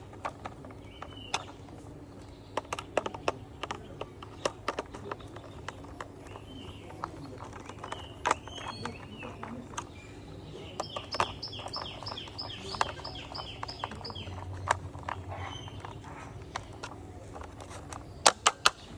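Irregular light clicks and taps of small screws being driven into a plastic toy school bus and the parts being handled. Birds chirp in the background, with a quick run of repeated chirps a little past the middle.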